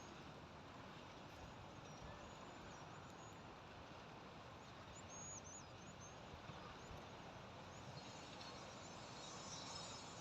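Faint outdoor farm ambience: a few short, high bird chirps, and from near the end a faint high insect chirring.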